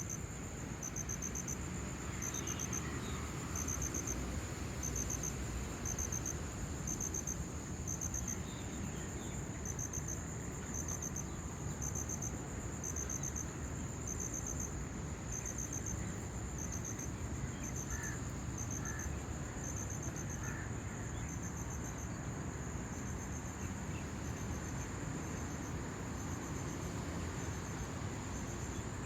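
Crickets chirping: pulsed chirps repeating about once a second over a steady, high continuous trill, with a steady low background rumble beneath.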